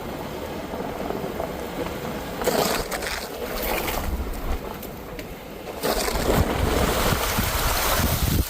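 Ford Super Duty pickup driving, with steady road and tyre noise and wind rush. The noise swells briefly about two and a half seconds in, then again louder from about six seconds in.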